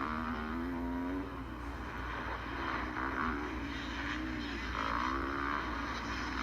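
Motocross bike engines revving, the pitch climbing and dropping several times over a steady low rumble.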